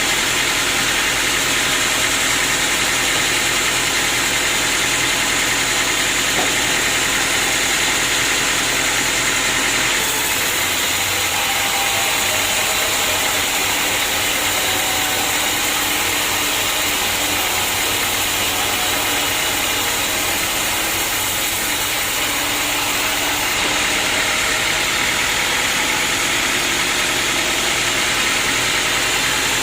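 Sawmill machinery running steadily: an engine-like drone under a constant high hiss, its tone shifting slightly about ten seconds in and again a few seconds before the end.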